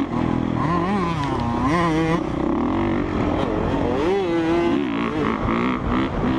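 Honda CRF450R dirt bike's four-stroke engine revving up and down as it is ridden, its pitch rising and falling again and again with the throttle.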